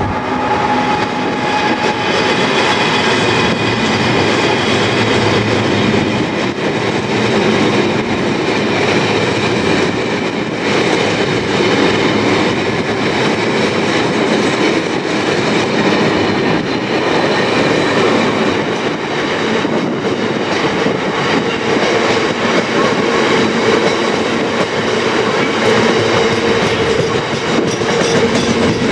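Freight train rolling past at steady speed, its wheels on the rails making a loud, continuous rumble and clatter, with faint high squealing from the wheels.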